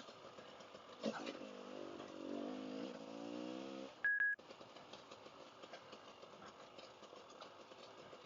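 Dirt bike engine pulling under throttle, its pitch climbing a little for about three seconds, then cutting out abruptly with a brief high beep. After that only a quieter, even running noise is left.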